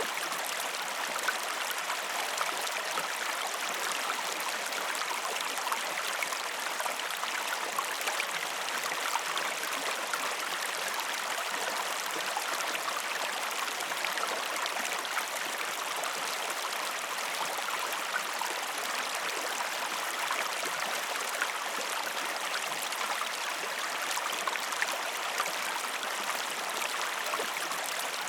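Steady rush of flowing water, with a fine, continuous patter of small splashes and drips.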